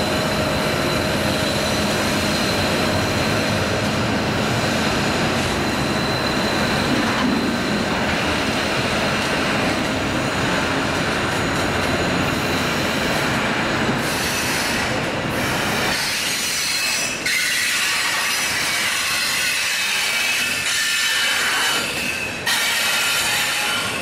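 Freight train passing: GE Dash 9-40CW diesel locomotives running, then double-stack container cars rolling by with steady rail noise and clatter. High wheel squeal from the curve comes and goes, strongest in the second half.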